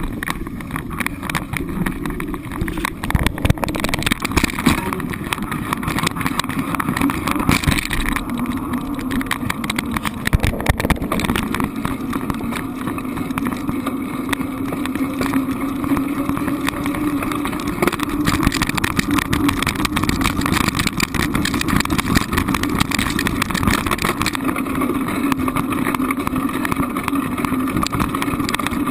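Steady running drone of a road vehicle in motion, engine hum mixed with road noise.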